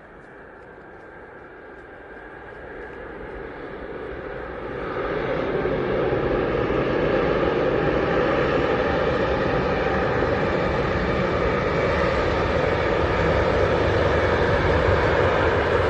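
Airbus A350 jet airliner on its landing approach, its Rolls-Royce Trent XWB turbofans swelling from distant to loud over about five seconds, then holding a steady rushing roar as it passes close by.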